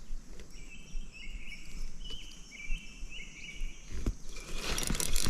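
Outdoor ambience with a bird calling a run of short, high notes, then a brief rush of noise near the end.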